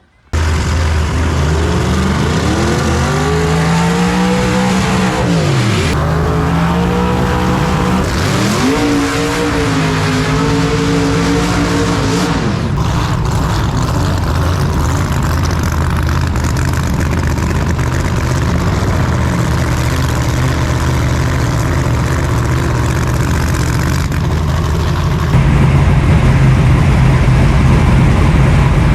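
Race truck engine running loud, its pitch rising and dropping back several times over the first dozen seconds, then holding a steady, dense run; it gets louder about 25 seconds in.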